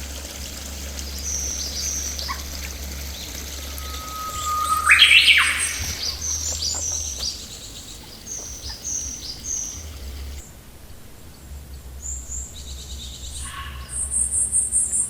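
Several wild birds calling: a series of short, high chirps repeated every second or so, a loud rising note about five seconds in, and a fast, very high trill near the end.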